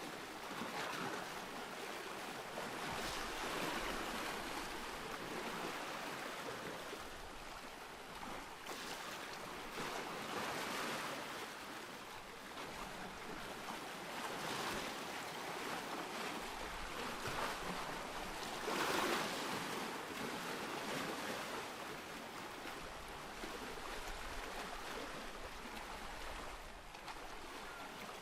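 Ocean surf: waves washing in as a steady rush of water that swells and eases every few seconds, the strongest surge about two-thirds of the way through.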